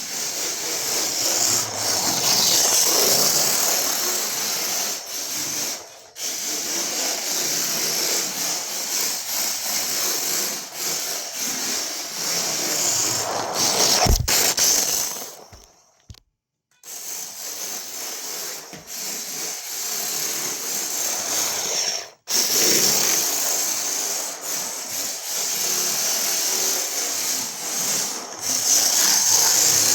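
Continuous rough scraping noise, cutting out for about a second roughly halfway through.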